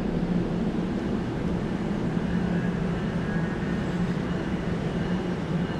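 Steady low mechanical hum with a constant droning tone over a bed of noise, without any rise or fall.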